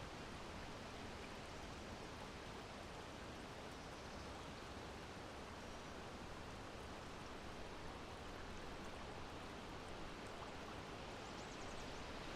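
Steady wind blowing, an even hiss with no gusts or breaks.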